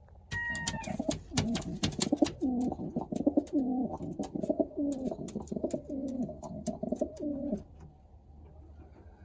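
Racing pigeon cooing over and over in low, rolling calls for about seven seconds, with sharp clicks and taps among the coos; the cooing stops near the end.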